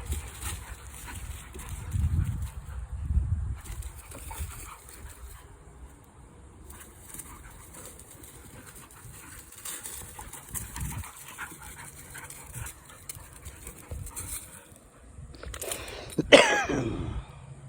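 Dogs playing rough, with scuffling and a few low thumps. Near the end one dog gives a single loud cry that falls steeply in pitch over about a second.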